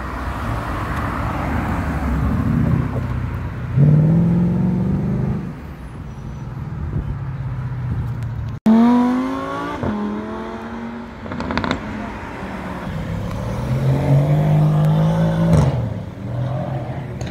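Sports car engines accelerating hard past on a city street over traffic noise. A loud rev rises about four seconds in. Just after a cut near nine seconds comes a run of quick rises and drops in pitch as the gears change. Another long rising rev comes about fourteen seconds in.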